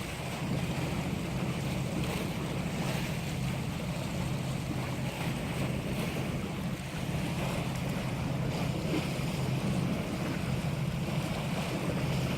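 Steady wind and sea-wave noise with wind buffeting the microphone and a constant low hum underneath.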